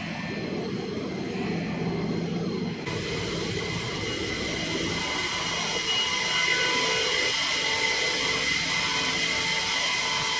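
Fighter jet engines running with a steady rushing noise and several high whining tones; the sound changes abruptly about three seconds in, to a brighter, louder whine.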